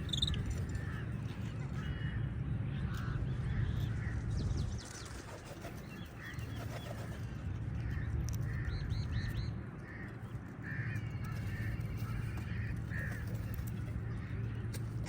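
A flock of crows cawing, many short calls repeating and overlapping, over a steady low rumble that drops away twice for about a second.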